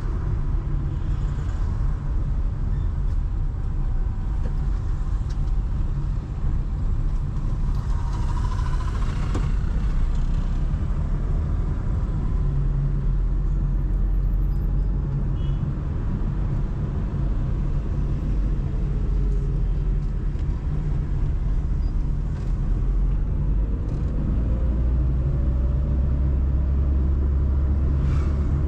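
Steady low rumble of a car driving, engine and road noise heard from the moving car, with city traffic around it. The noise swells briefly about eight seconds in.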